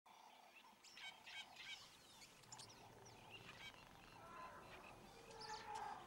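Birds calling: many short, high chirps and whistles throughout, with a longer, lower call growing louder near the end.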